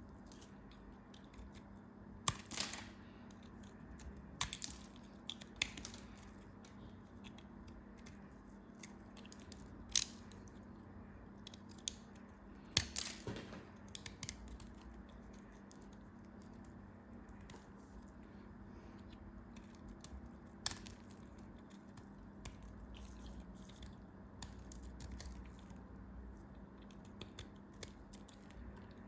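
Crisp handling sounds of a brittle material being broken: a dozen or so sharp cracks and crunches at irregular intervals, a few of them much louder, over a steady low hum.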